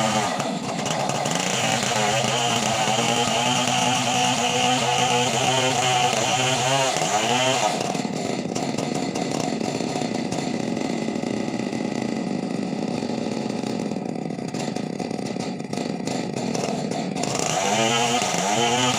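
Two-stroke chainsaw running hard, its pitch dipping and wavering as it works. It turns rougher and noisier through the middle, then revs back up near the end.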